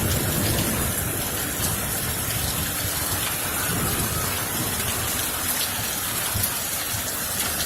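Rain falling steadily in a thunderstorm.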